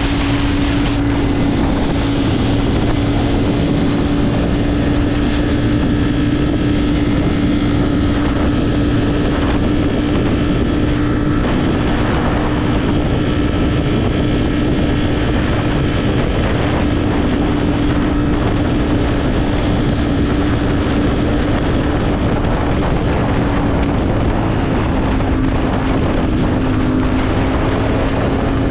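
Motorcycle engine running at a steady cruise, its pitch holding even and dipping slightly near the end, with wind rushing on the microphone.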